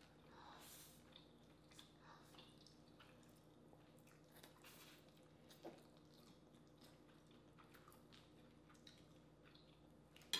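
Near silence with faint eating sounds: soft chewing and small wet mouth clicks scattered throughout, over a low steady hum.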